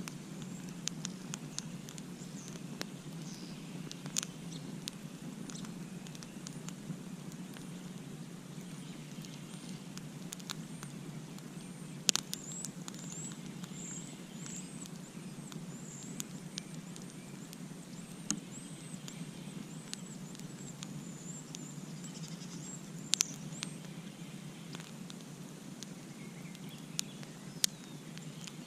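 Campfire burning with a steady low hiss, broken by scattered sharp crackles and pops from the burning wood, several of them louder than the rest. A faint high chirping runs through the middle.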